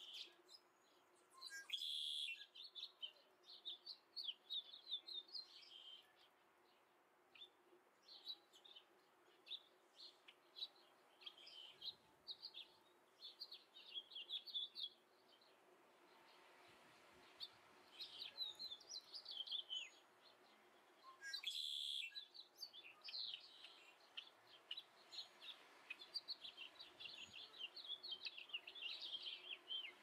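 Small birds chirping in quick twittering runs, with two louder, harsher notes about two seconds in and again past the twenty-second mark, over a faint steady hum.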